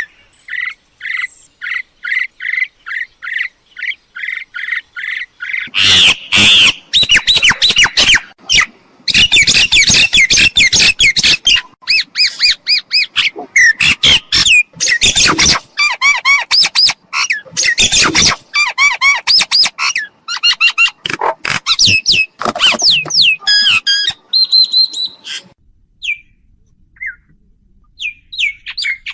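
Mynas calling. First comes a steady run of repeated notes, about three a second. Then a long dense stretch of loud, harsh squawks, chatters and whistles, which thins to a few scattered notes near the end.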